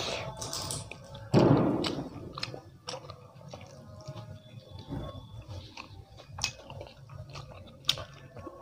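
Close-miked chewing of a mouthful of rice and dal eaten by hand: soft wet mouth sounds and small clicks, with one louder mouth sound about a second and a half in.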